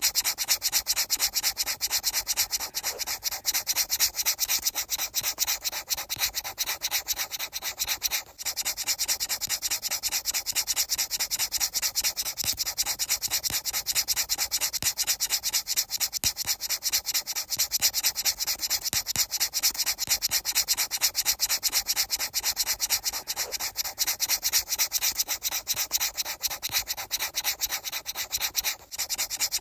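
Rapid, steady rubbing strokes with a hissy, high scraping texture, briefly breaking off about 8 seconds in and again near the end.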